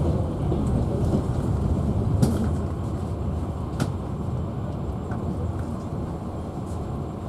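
Passenger train running on the rails, heard from inside the carriage: a steady low rumble of wheels and car. There are two sharp clicks about two and four seconds in, and the rumble grows slightly quieter toward the end.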